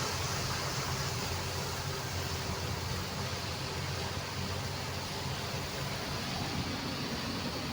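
Steady driving noise of a vehicle on a highway in heavy rain: a low engine hum under a constant hiss of rain and tyres on the wet road.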